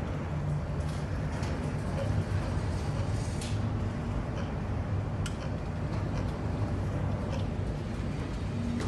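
Ship's engine drone, a steady low hum, with scattered light clicks and rattles on top.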